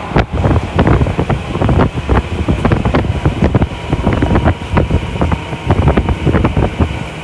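Tokyu Toyoko Line commuter train running at speed: a steady rumble of wheels on rails with many irregular clicks and knocks from the track.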